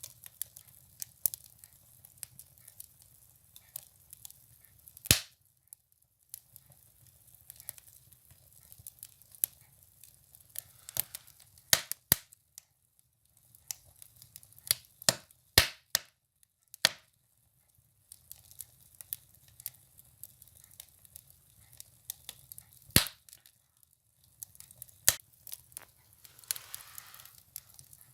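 Firewood burning in a stove, crackling with irregular sharp pops; the loudest pops come about five seconds in, around twelve and sixteen seconds in, and again near twenty-three seconds. A brief hiss near the end.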